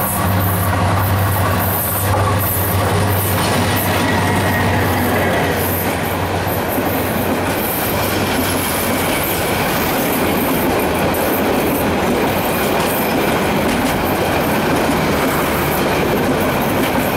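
Bangladesh Railway commuter train passing close by. The diesel locomotive's engine hum dominates at first and gives way after about six or seven seconds to the steady rolling clatter of the passenger coaches' wheels on the rails.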